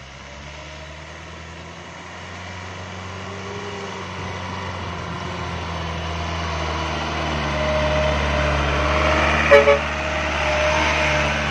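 Light truck's diesel engine running under load, growing steadily louder, with two short horn toots about nine and a half seconds in.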